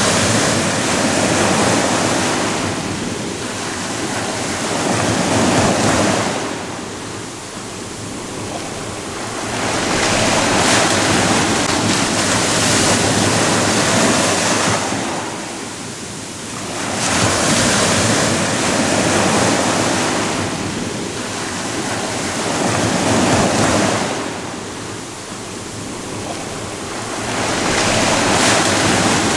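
Ocean waves breaking on a shore, a continuous rushing wash that swells and recedes every five to seven seconds as each wave comes in and drains back.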